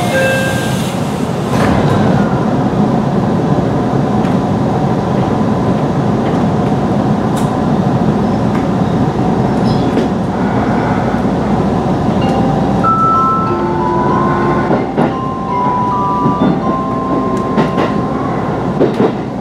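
Aichi Loop Line electric train departing: a door chime sounds and the doors shut with a knock, then steady running noise as the train pulls away and picks up speed. A few short tones step up and down in pitch later on.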